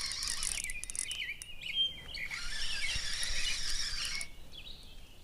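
Small birds chirping in short calls, over a high, hissing, clicking noise that comes in two stretches, the second about two seconds long.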